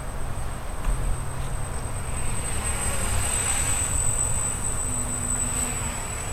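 Small quadcopter's motors and propellers buzzing with a steady high whine, swelling louder in the middle as it comes closer, over heavy wind rumble on the microphone.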